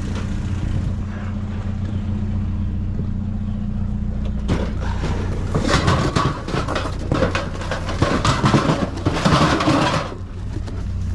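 A box of metal mouse traps being handled, rattling and clattering from a few seconds in until near the end, over a steady low engine hum.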